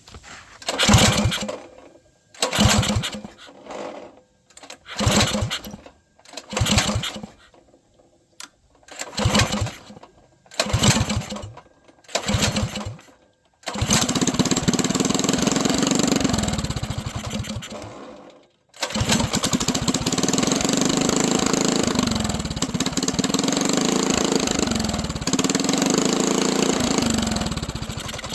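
Mini bike's small engine cranked over in about eight short bursts, each a second or less, before it catches about 14 seconds in and runs. It cuts out briefly near 18 seconds, then runs again with its revs rising and falling.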